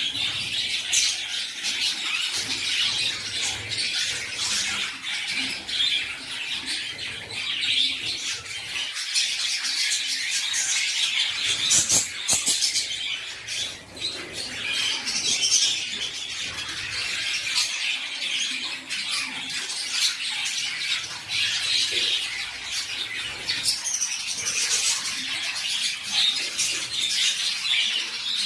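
Many small caged birds chirping and calling at once in a dense, unbroken chatter, with a few short squawks and sharp clicks mixed in.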